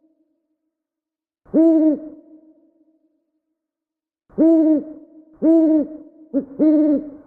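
An owl hooting: four separate hoots, each about half a second long, arching slightly up and down in pitch and trailing off in an echo. The first comes alone and the last three follow close together, with a brief clipped hoot just before the final one.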